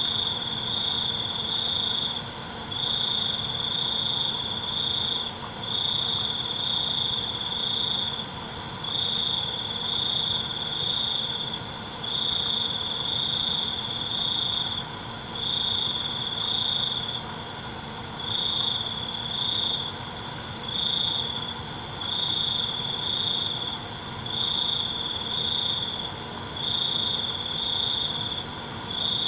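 Night chorus of crickets. One loud cricket trills in spells of about two seconds with short breaks, over a steady high-pitched chorus of other insects.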